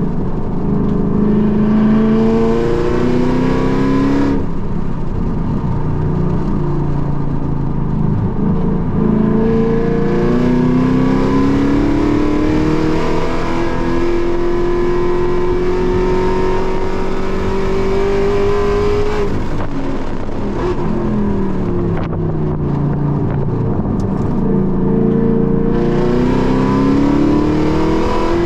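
Car engine heard from inside the cabin, pulling hard under full throttle on a track lap: the pitch climbs through a gear, drops at shifts about four and nine seconds in, then climbs through one long pull. Near two-thirds of the way through it lifts off and the pitch falls while braking, before accelerating again near the end.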